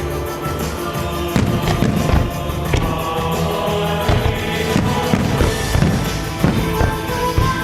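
Music played for a fireworks show, with several fireworks shells bursting over it at irregular intervals.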